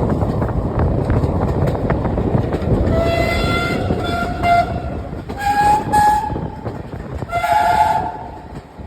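GWR Prairie steam locomotive working hard uphill, a dense rumble that fades, then three whistle blasts about a second apart, the last sounding two tones at once.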